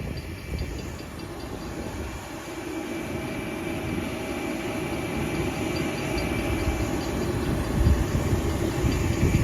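LIRR M9 electric multiple-unit train running with a steady motor whine over the rumble of its wheels, growing gradually louder as it comes in. A few heavy low thumps come near the end.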